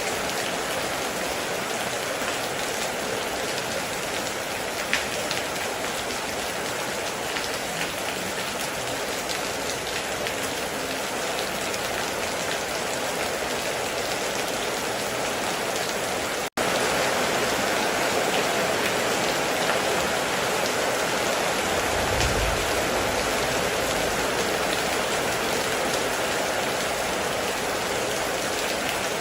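Heavy rain falling steadily in a dense patter. About halfway it cuts out for an instant and resumes a little louder, and a short low rumble comes about two-thirds through.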